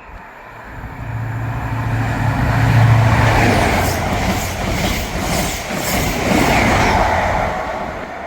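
ScotRail HST with Class 43 diesel power cars passing through the station without stopping. A low engine drone from the leading power car builds and peaks about three seconds in, then the coaches go by with a regular clatter of wheels on the rails, fading near the end.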